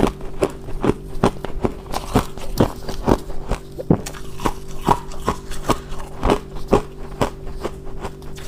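Someone chewing mouthfuls of deep-freezer frost ice, with crisp crunches about twice a second, over a steady low hum.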